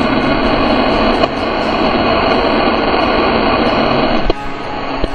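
Loud, steady rushing static-like noise that cuts off abruptly about four seconds in.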